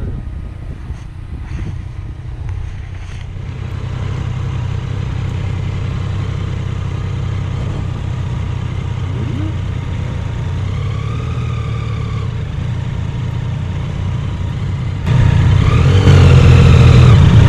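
Honda CB750F's inline-four engine idling with a steady low note. It grows louder a few seconds in and steps up sharply about fifteen seconds in.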